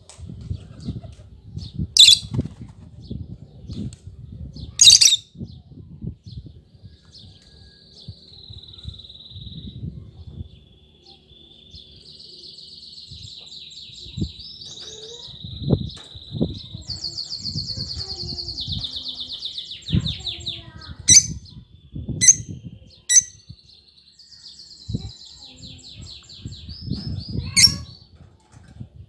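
Pet lovebirds chirping and chattering, with long buzzy trilling runs in the middle and a few sharp, shrill calls. Low fluttering and thumping sounds continue underneath.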